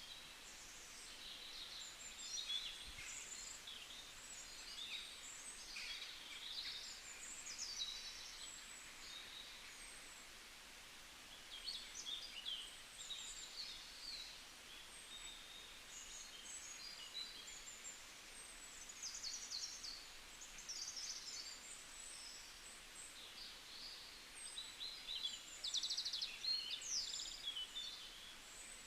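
Small birds chirping and twittering, many short high calls and quick trills overlapping, over a faint steady hiss.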